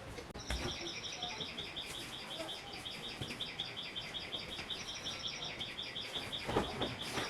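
A bird chirping in a fast, even trill of short high notes, about eight a second, starting about half a second in. A couple of soft knocks come near the end.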